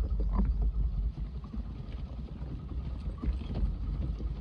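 Motorcycle riding slowly over a rocky road: a low engine rumble with wind buffeting the microphone and scattered small knocks.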